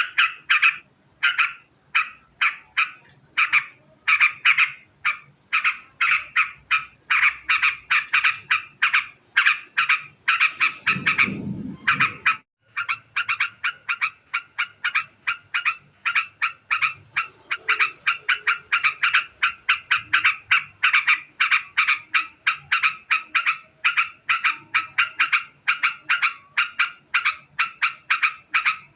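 Yellow-vented bulbul (trucukan) giving its long, very fast chattering 'ngekek' call: short sharp notes repeated several times a second without pause. A brief low rumbling noise comes about eleven seconds in, with a short gap in the calls.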